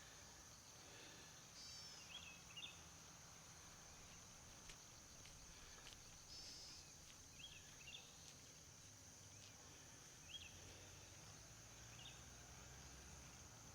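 Faint outdoor ambience: a steady high insect drone, with short bird chirps repeating every second or two, often in pairs.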